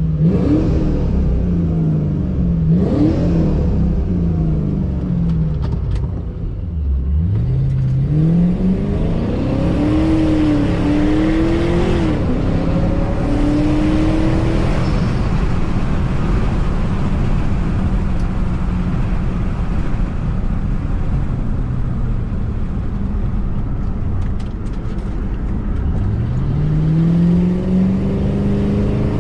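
Supercharged 4.6-litre V8 of a 2006 Ford Mustang GT accelerating hard through the gears, its pitch climbing and dropping back with each shift several times. It then holds a fairly steady note before pulling up again near the end.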